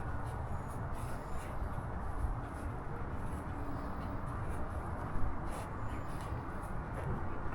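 Outdoor background noise: a steady low rumble with a few faint clicks scattered through it.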